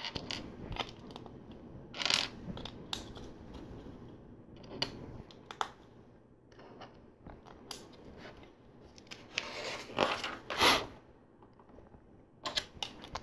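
Plastic LEGO pieces being handled and pressed together: scattered sharp clicks and short rattling rustles as parts are picked out and snapped onto the build.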